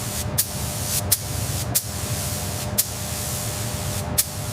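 Steady spraying hiss over a low rumble, broken by about five sharp clicks spaced unevenly.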